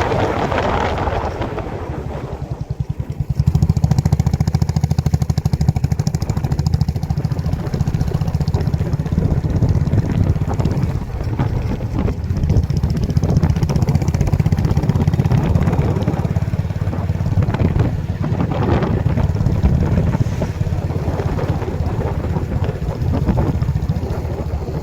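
Motorcycle engine running while riding, a steady low thrum that dips briefly about two seconds in and then picks up again, with wind buffeting the microphone.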